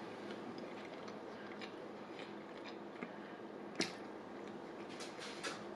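Quiet closed-mouth chewing of a sandwich: faint mouth clicks and soft wet sounds over a low steady room hiss, with a sharper click about four seconds in and a few more near the end.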